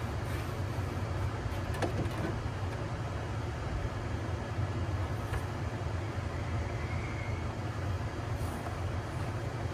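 A steady low rumble with a light hiss over it, and a couple of faint knocks about two seconds in.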